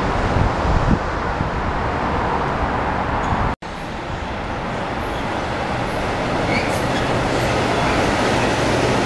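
Metro-North M8 electric multiple-unit train running past on the rails. The sound cuts off for an instant a little over a third of the way in, and a second M8 train then runs past, growing gradually louder, with a steady low hum and a few faint high chirps.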